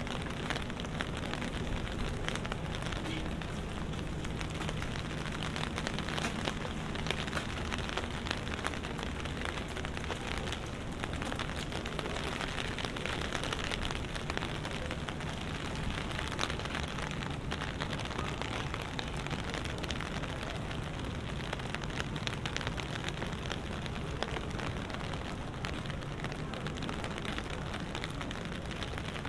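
Steady rain, with dense drops ticking on an umbrella held overhead. A faint low steady hum runs underneath.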